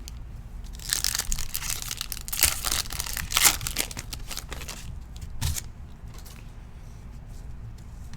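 A Prizm football trading-card pack's wrapper being torn open and crinkled, with loud crackling for about three seconds and a short final crackle a couple of seconds later.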